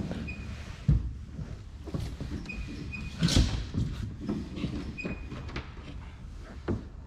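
Irregular clunks and knocks, the loudest about a third of the way in, with a few short high squeaks between them, as of hands working with tools and parts.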